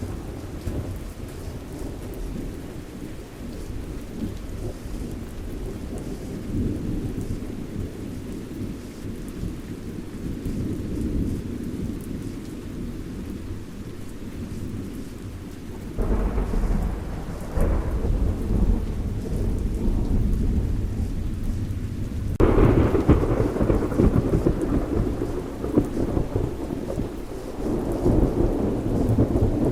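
Thunderstorm: steady rain with a low rolling rumble of thunder. About halfway through a loud clap of thunder breaks in and rumbles on, and a few seconds later a stronger one follows, swelling again near the end.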